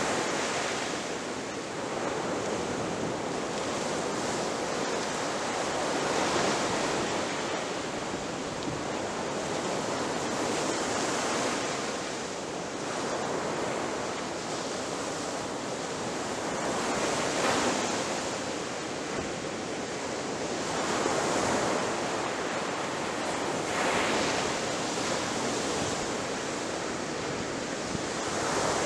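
Ocean surf: waves breaking and washing up on a beach in a continuous rushing wash, swelling with each breaker every few seconds.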